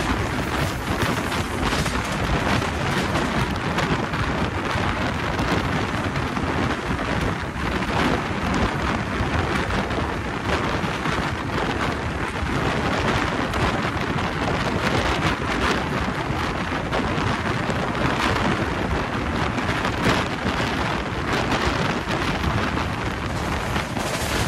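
Express train running at speed, heard on board: a steady, loud rush of wheel-on-rail noise with scattered short knocks from the track.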